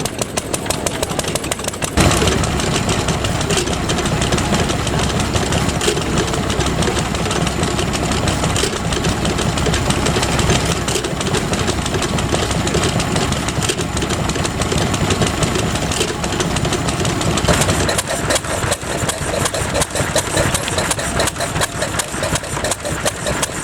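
Vintage stationary engines running, with a regular beat of about four pulses a second. About two seconds in the sound changes abruptly to a denser, louder clatter, and it goes back to a clearer steady beat near the end.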